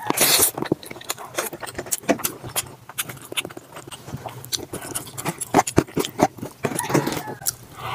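Close-miked chewing of a mouthful of spaghetti with meat sauce: wet mouth smacks and many quick sharp clicks, with a louder slurp of noodles going into the mouth about half a second in.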